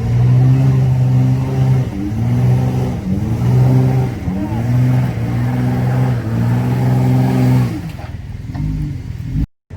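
Off-road vehicle's engine revving under load in about five held bursts, the pitch dipping and climbing back between each. It eases off a couple of seconds before the end, and the sound drops out briefly just before the end.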